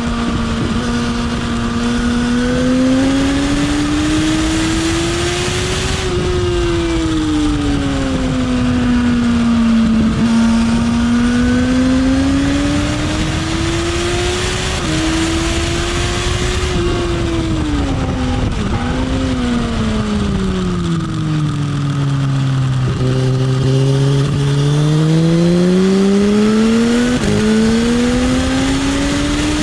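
Motorcycle engine heard from the bike at track speed: its note climbs under acceleration and sinks on braking into corners, several times, with short steps at gear changes. The deepest dip is about two-thirds of the way through, at a slow corner, with wind rushing over the microphone throughout.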